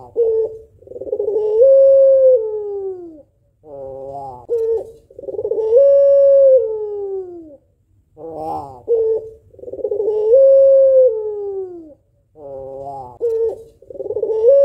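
Female white ringneck dove (puter pelung) cooing its long call four times, about every four seconds: each begins with a short stuttering burst, then holds a long coo that lifts slightly before sliding down in pitch. The last call is cut off at the end.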